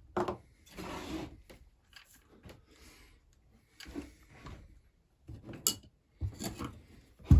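Chainsaw parts and tools being handled during a teardown: scattered clicks, short rubbing and light knocks of plastic and metal, with the loudest knock near the end.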